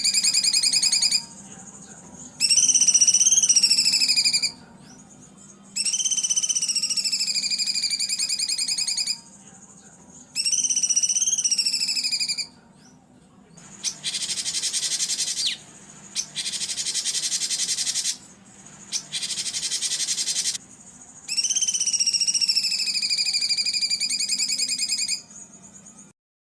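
Songbird masteran recording of harsh 'tembakan kasar' calls used to tutor caged birds. Repeated buzzy phrases, each one to two seconds long with a wavering pitch, come with short pauses between them. Midway there is a run of three rasping, rattling bursts, and the sound cuts off abruptly near the end.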